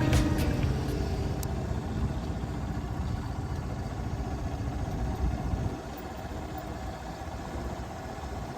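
Kawasaki 250TR's single-cylinder engine running, a low, steady rumble that becomes quieter about six seconds in.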